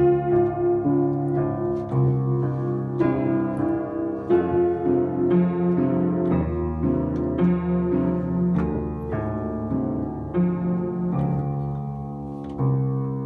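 Piano playing a slow melody over sustained chords, with a new note or chord struck every half second to second.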